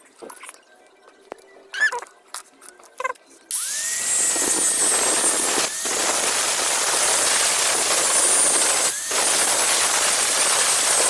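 An electric hand grinder switches on about a third of the way in, its whine rising as it spins up. It then runs with a loud, steady grinding hiss, dipping briefly twice, as it grinds the rust off a steel knife blade. Before it starts there are only a few faint handling clicks and squeaks.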